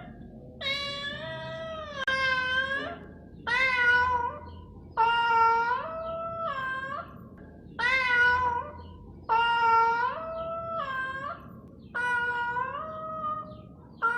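Mother cat giving a long series of drawn-out meows, one about every second and a half, each with a bending pitch: she is calling for her four lost kittens.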